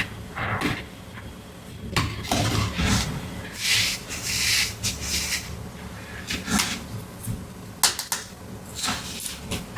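Toy packaging and plastic playset pieces being handled during unboxing: crinkling and rustling, with a longer rustle about halfway through and a few sharp plastic clicks and taps.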